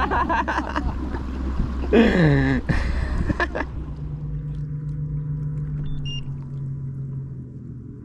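Boat motor running with a steady low hum whose pitch slowly drops, after a few seconds of splashing water noise with a short falling call about two seconds in.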